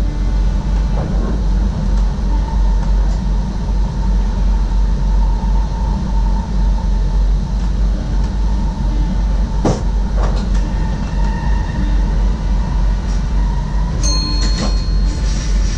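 SGMm Sprinter electric train running, heard from the driver's cab: a steady rumble with a faint whine, two sharp clicks near the middle, and a brief high-pitched tone near the end.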